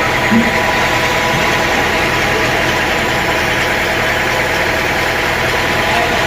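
Sawmill machinery running steadily: a continuous engine-like drone with a steady whine.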